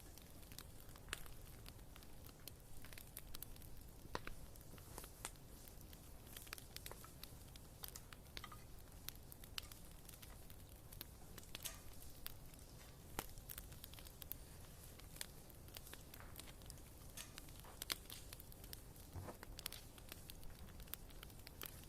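Wood fire burning in a fireplace, crackling with irregular sharp pops and snaps over a faint, steady low rumble.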